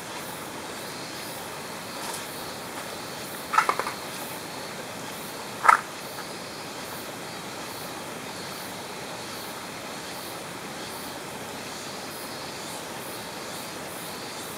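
Steady rushing of a mountain stream. A brief rattle of clicks comes about three and a half seconds in, and a single sharp click about two seconds later.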